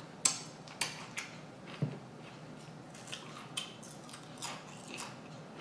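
Scattered sharp crackles and clicks of close-up eating: a person biting into and chewing a crunchy grinder salad sandwich of romaine lettuce and peppers. About eight crisp cracks, the loudest about a quarter second in, with a soft low thump near two seconds.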